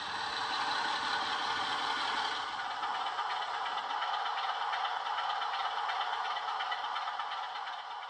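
Sound-fitted OO gauge model diesel locomotive playing its diesel engine sound through a small on-board speaker: a steady rattling engine clatter, thin with no bass, that begins to fade out near the end.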